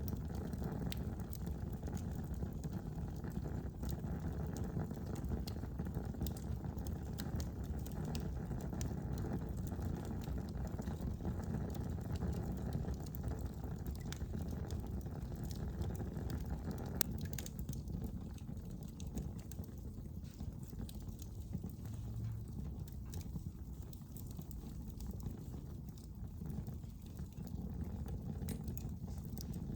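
Wood fire burning in a fireplace: a steady low rush with scattered crackles and pops.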